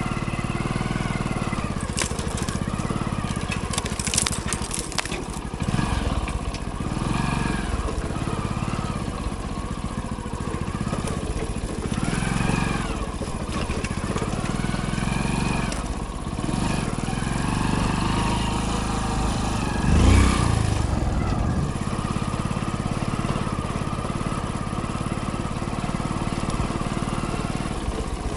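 Hero Splendor's small single-cylinder four-stroke engine running under way, its engine speed rising and falling. Sharp clicks and knocks come from the bike jolting over rough trail, with a loud thump about twenty seconds in.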